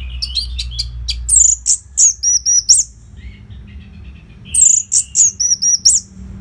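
Orange-headed thrush singing: two loud phrases of quick, high, repeated down-slurred notes, the first about a second in and the second near the end, with softer twittering between them. A low hum runs underneath.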